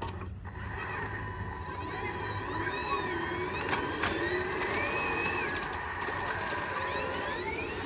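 Small electric motors and gearboxes of radio-controlled construction-machine models whining, the pitch rising and falling as the machines move, with a couple of sharp clicks near the middle.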